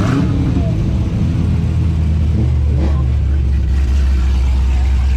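Car engine running with a deep, steady drone, with brief revs near the start and again about two and a half to three seconds in.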